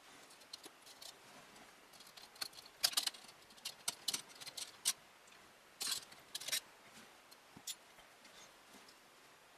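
Small sharp clicks and brief rattles of hard plastic and metal parts being handled and fitted, in scattered groups, with the loudest clusters about three seconds in and around six seconds in.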